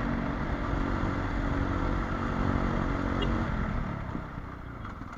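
Motorcycle engine running at a steady pitch, easing off somewhat near the end.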